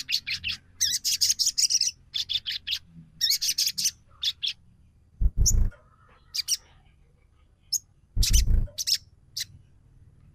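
Sogon lure call: rapid trains of short, high, rattling chirps in several bursts, with two louder, harsher calls about five and eight seconds in. The recording is meant to provoke a captive sogon into singing and aggression.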